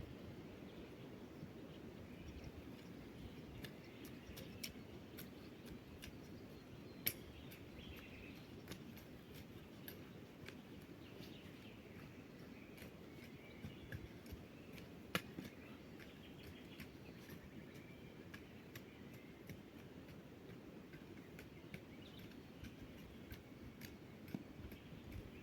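Scattered sharp clicks and snaps at an irregular pace, a few louder than the rest, over a faint outdoor background.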